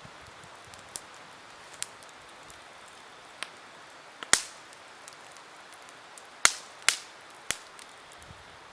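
Wood campfire crackling: sharp single pops at irregular intervals over a faint steady hiss, the loudest pop a little past halfway and a quick pair about two seconds later.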